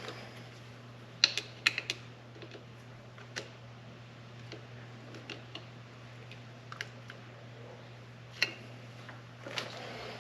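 Scattered light clicks and taps of hands and small metal parts being worked, a quick run of four clicks near the start and single clicks later, over a steady low hum.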